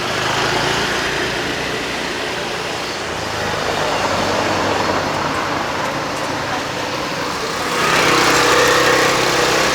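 City street traffic: motor vehicles running past with a low engine hum and tyre noise, growing louder about eight seconds in as one passes close.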